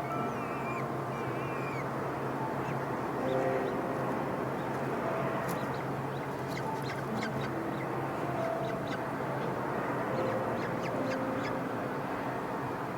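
Birds calling, short chirps and squawks at varying pitches over a steady background hiss, with a cluster of sharp ticks in the middle of the stretch.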